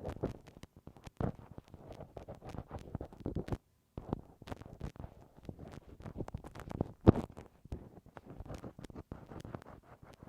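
Bamboo ear pick scraping and tapping in the ear canal of a binaural dummy-head microphone: close, irregular crackly scratches, with a brief break about three and a half seconds in and one louder scrape about seven seconds in.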